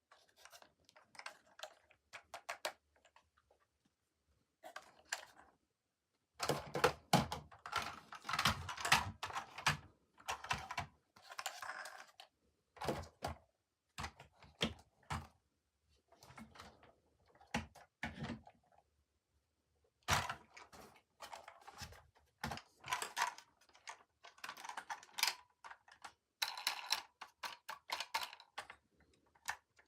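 Toy packaging being handled and opened: irregular clicks, taps and crinkling of plastic and cardboard in short stretches, with dead pauses between.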